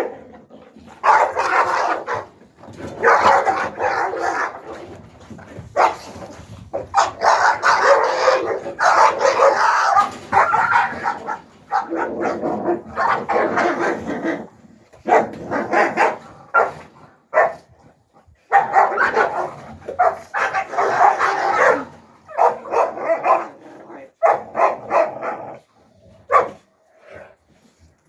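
Alabai (Central Asian Shepherd) puppies fighting for dominance, barking and yipping in rough bursts of a second or two with short pauses between.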